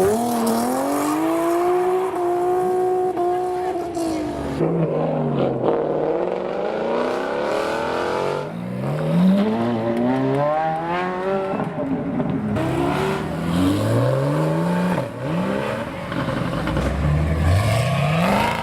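Supercar engine revving hard and accelerating away: a long high-revving note that rises and falls, then several quick climbs in pitch, each cut short by a gear change.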